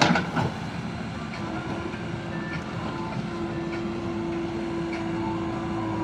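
Eicher 551 tractor's diesel engine running steadily while hauling a loaded trolley. A brief loud clatter comes right at the start.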